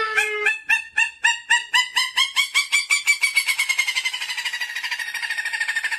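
A bird calling in a long series of short, repeated notes. The notes speed up steadily from about three a second to a rapid trill of about ten a second, sliding slowly lower in pitch.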